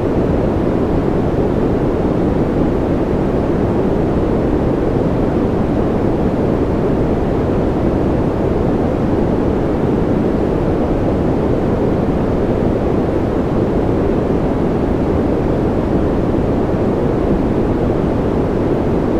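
Steady, unchanging deep rushing noise from a sleep noise track, heavy in the low end with little hiss above.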